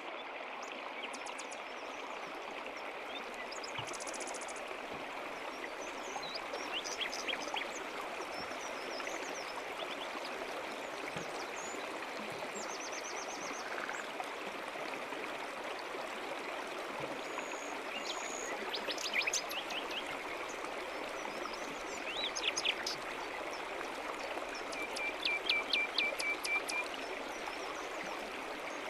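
A stream babbling steadily, with small birds chirping and trilling now and then; a longer run of quick chirps comes near the end.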